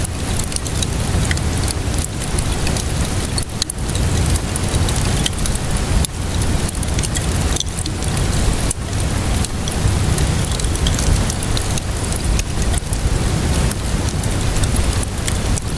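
Steady rainfall hiss with a low rumble underneath, mixed with a wood fire crackling: frequent sharp pops and snaps scattered irregularly throughout.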